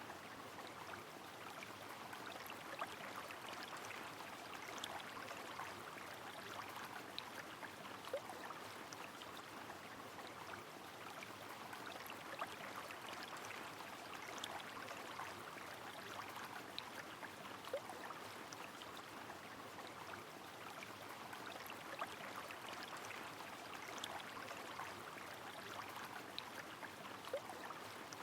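River water flowing steadily in the rain, an even rush with scattered sharp drips and plinks throughout.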